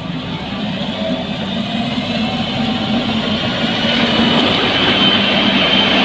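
Heavy engine of road construction machinery running, slowly growing louder, with a steady high whine over it.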